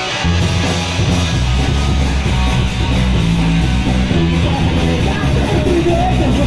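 Live punk band playing a song's instrumental intro: guitar strumming, with bass and drums coming in a moment in and the full band running on at a fast, steady drive.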